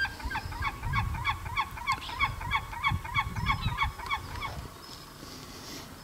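A bird calling in a fast, even series of short calls, about four a second, stopping about three quarters of the way through. A low, uneven rumble runs underneath.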